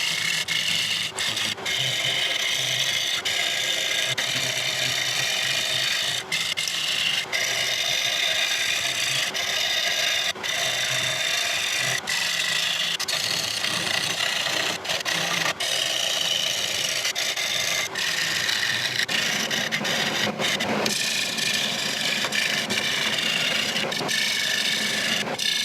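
A turning tool cutting into a spinning rosewood bowl on a lathe, hollowing the inside. It makes a continuous scraping, shaving sound, broken by many brief dips where the cut lightens for a moment.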